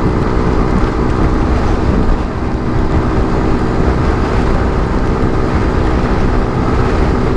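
150cc motorcycle under way, its engine running at a steady cruising pitch over a constant rush of road noise.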